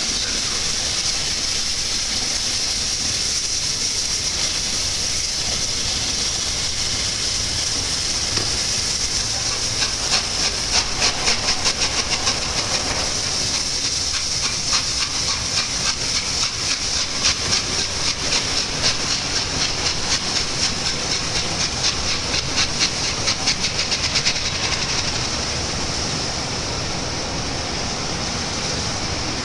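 Peppercorn A1 Pacific steam locomotive 60163 Tornado passing slowly with a steady loud hiss of steam. From about ten seconds in, a rapid, even clatter joins the hiss, easing off near the end.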